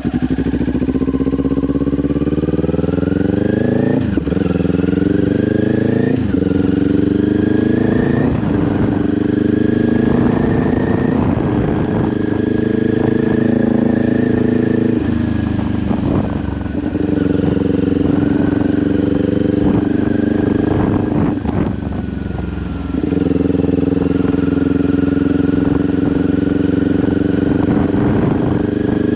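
Kawasaki Ninja 400 parallel-twin engine through an SC-Project aftermarket exhaust, accelerating hard and shifting up: the pitch climbs and drops sharply three times in the first eight seconds, then holds mostly steady at cruise, with a short roll-off of the throttle near the end before it picks up again.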